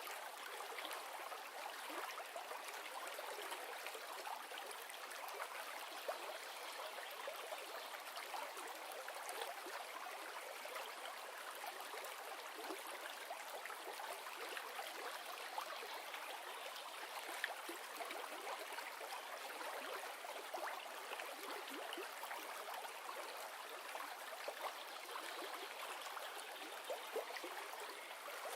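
River water running over stones, a steady rushing with small splashes and trickles.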